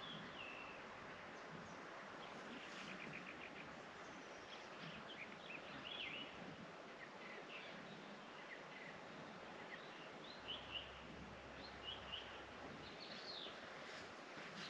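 Small songbirds chirping and twittering faintly, short calls scattered throughout with a quick trill about three seconds in, over a steady outdoor hiss.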